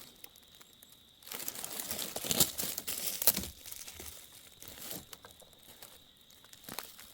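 Rustling and crackling of dry leaves and forest litter being disturbed, in irregular bursts that are busiest from about one to three and a half seconds in.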